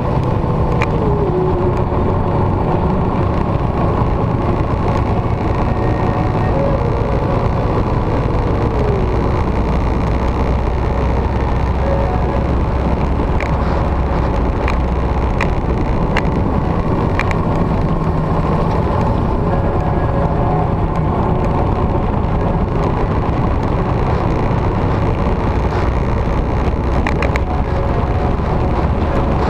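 Motorcycle riding at road speed: a steady engine drone under constant wind rush, with two short falling tones in the first ten seconds and a few sharp ticks about halfway through.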